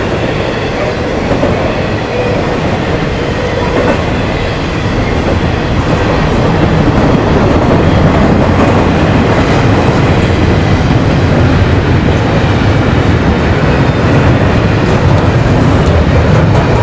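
A train rolling past on the rails, growing louder about six seconds in as it comes closer.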